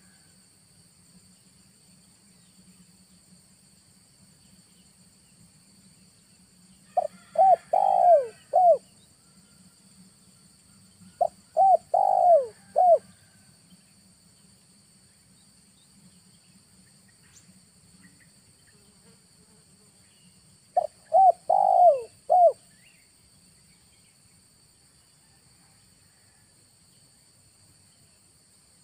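Spotted dove cooing three times, each phrase a quick run of four or five coos. A steady high insect drone runs behind it.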